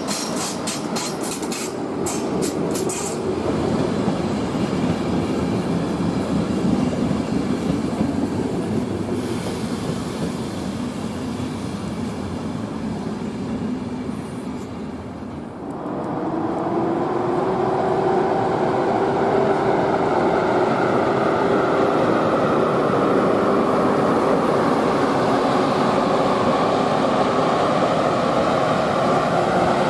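Train running through the station, with sharp clicks of wheels over rail joints in the first few seconds over a steady rumble. About halfway the sound changes abruptly, and a steady whine of several tones joins the running noise.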